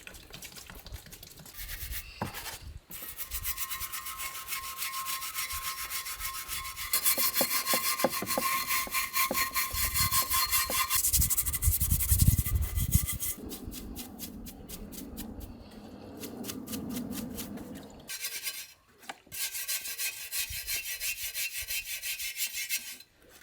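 Gearbox parts being scrubbed clean with a brush in petrol: quick repeated back-and-forth rubbing strokes, in several short stretches that change abruptly.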